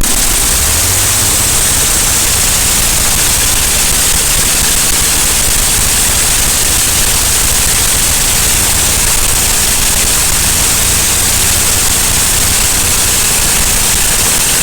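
Ford 6000 Commander's six-cylinder diesel engine running just after it has started, its pitch rising in the first second and then holding steady under a loud, heavy hiss. This is the engine's first run after the head was refitted on the old gasket.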